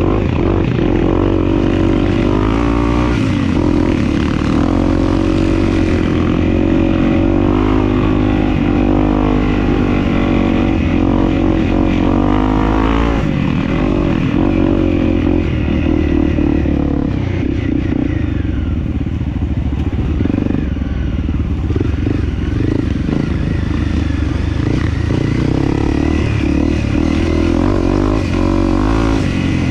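Dirt bike engine running under way, revving up and easing off again and again with the throttle, steadier in the second half.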